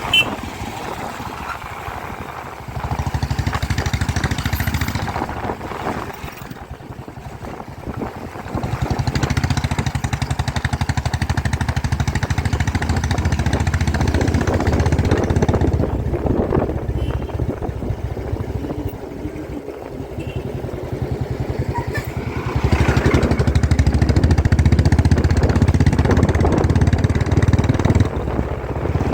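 Motorcycle engine running while riding. It eases off twice, about six and twenty seconds in, and pulls harder again each time.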